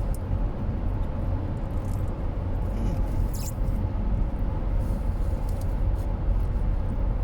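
Steady low road and engine rumble inside a moving car's cabin, with a few brief light clicks, one plainer about halfway through.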